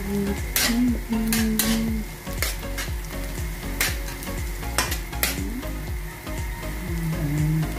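Chopped onion and garlic sizzling as they sauté in oil in a steel wok. A metal spatula stirring them scrapes and knocks against the wok several times, at irregular intervals.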